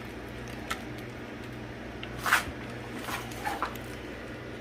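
Faint kitchen handling noises over a steady low room hum: a small click, then a short rustle about two and a half seconds in and two fainter ones after it.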